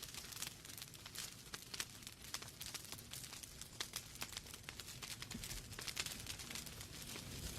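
Wood fire burning in a fireplace, logs crackling and popping in quick irregular snaps over a soft hiss and low rumble of the flames.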